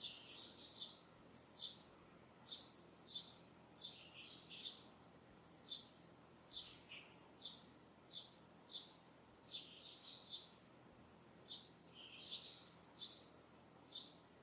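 Small birds singing: short, high chirps, many of them falling in pitch, repeated about once or twice a second over a faint steady hiss.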